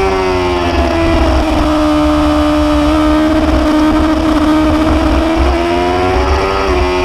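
Motorcycle engine running at high revs while riding. Its pitch eases down over the first second and a half, holds steady, then climbs a little near the end, over a constant low rumble.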